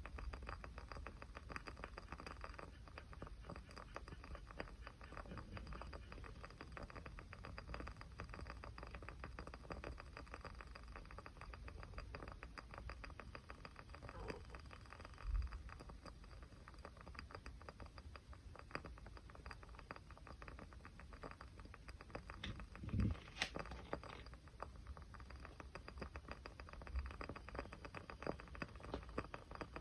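Small fire crackling softly: a dense run of fine ticks, with a few louder pops, the loudest about 15 and 23 seconds in.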